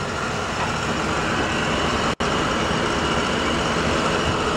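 A 1994 GMC Vandura's 350 cubic inch (5.7 L) V8 idling steadily under the open hood. The sound cuts out for an instant about two seconds in.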